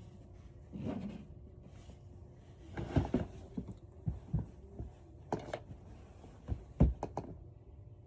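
A scattered series of soft thumps and knocks, about ten of them at irregular intervals, the loudest about three seconds in and near the end, over a faint steady hum.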